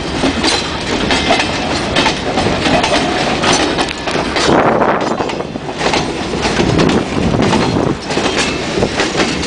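Freight train wagons, covered vans and hopper cars, rolling past close by: steel wheels clattering over the rail joints with repeated clanks and knocks over a steady rumble.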